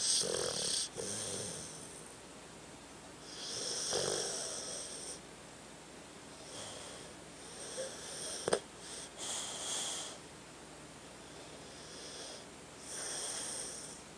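A sleeping dog snoring: slow, separate snoring breaths every few seconds, each with a high, wheezy whistle, and one short, sharp snort about eight and a half seconds in.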